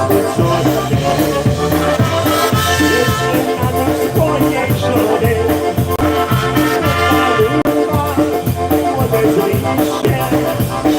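Polka band playing live, an instrumental passage with sustained melody notes over a steady, even beat.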